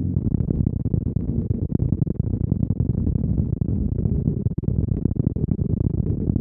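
KTM Duke 125's single-cylinder engine through a Storm GP aftermarket exhaust, running with a choppy, uneven note full of rapid irregular crackles, after a steadier pitched tone just before.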